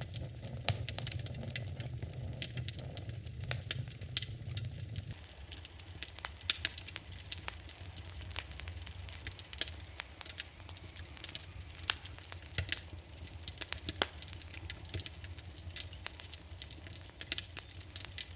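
Wood fire in a fireplace crackling, with frequent irregular sharp pops and snaps over a soft steady hiss. A low hum under it drops away about five seconds in.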